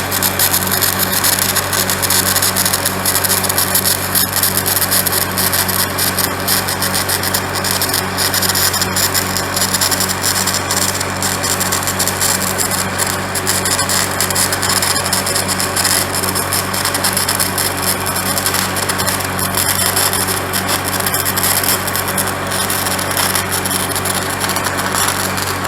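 Stick-welding arc crackling steadily as a bead is run with 7018 rod on a cracked backhoe boom, over the steady hum of the engine-driven welder. The arc cuts off suddenly at the very end, leaving the welder's engine running.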